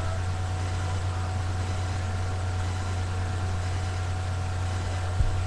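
Steady low hum with a faint hiss behind it, the background noise of the recording, with a single short knock near the end.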